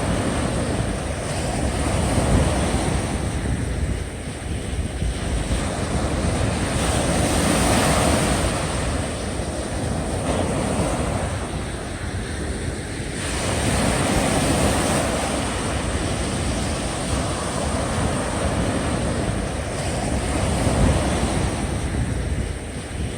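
Heavy sea swell washing against a breakwater, with strong wind buffeting the microphone; the noise swells and eases in surges about every six seconds.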